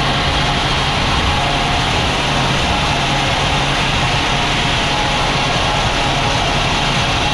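Sawmill machinery running steadily: a heavy engine's low hum under an even wide noise, without a break.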